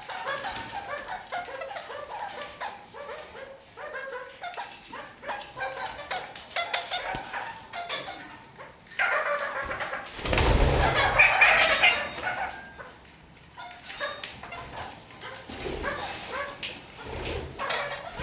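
Red-crowned kakariki chattering in quick, repeated calls. About halfway through, a louder, rougher noise lasts a few seconds.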